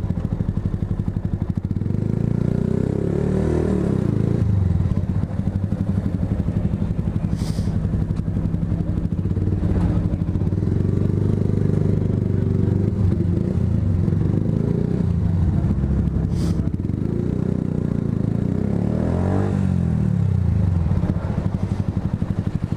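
Motorcycle engine running while riding, its pitch falling and rising a few times with the throttle.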